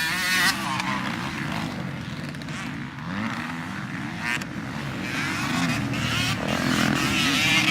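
Several motocross bikes' engines running at once, revving up and down over one another as they race, growing a little louder near the end.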